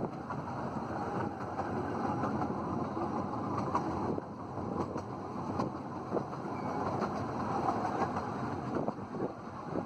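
Running noise of a 15-inch gauge miniature railway train: a steady rumble of carriage wheels on the track, with a few faint clicks.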